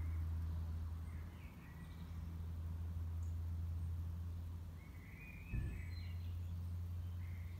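Garden birds chirping in short scattered calls, over a steady low rumble. A single brief knock about five and a half seconds in.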